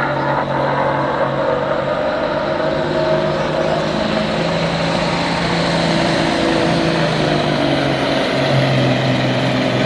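A Cummins 855 straight-six diesel in a 1988 Mack Superliner semi, running hard and steady under full load as it pulls the weight sled.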